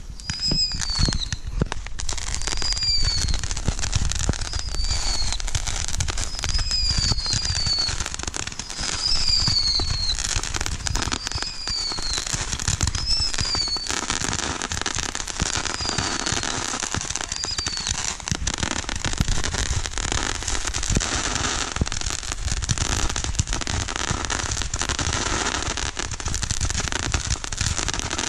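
Consumer fireworks going off in rapid succession, with dense bangs and crackling throughout. Over the first half, short falling whistles repeat about once a second; later the crackling thickens and the whistles stop.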